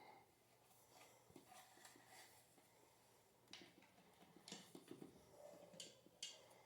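Near silence, with a few faint clicks and light knocks of small metal parts and screws being handled during ceiling fan assembly.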